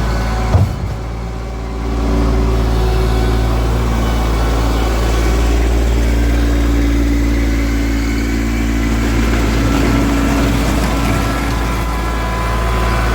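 Diesel engine running steadily, picking up slightly about two seconds in, with a sharp thump about half a second in.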